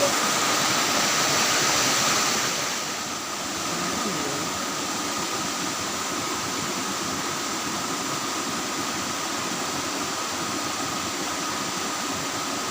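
Steady rush of flowing river water, slightly quieter after about three seconds, with a thin steady high tone running under it.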